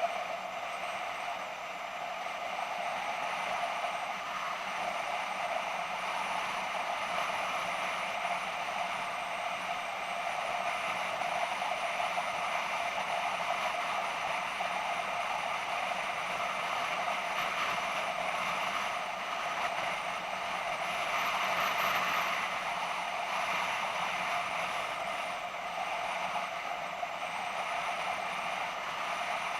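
BMW F650GS motorcycle under way, its engine and road noise a steady mechanical drone that swells a little about two-thirds of the way through.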